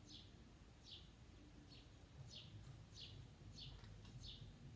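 Faint bird call: a short high chirp falling in pitch, repeated regularly about one and a half times a second, over a low background rumble.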